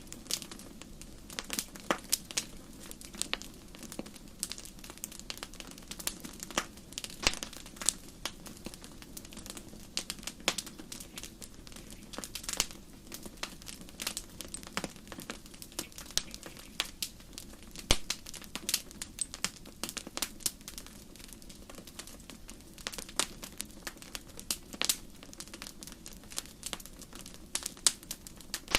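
Wood campfire crackling: a steady low hiss of burning with frequent irregular sharp pops and snaps, a few louder ones standing out.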